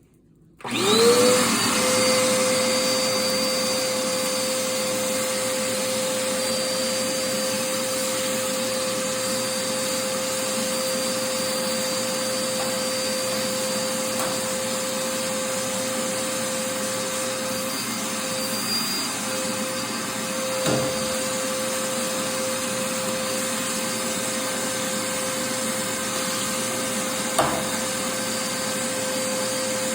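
Dirt Devil Endura Reach bagless upright vacuum switched on about half a second in. Its motor whine rises quickly, then runs steadily through the hose and wand. A few sharp clicks come later as loose cat litter is sucked up.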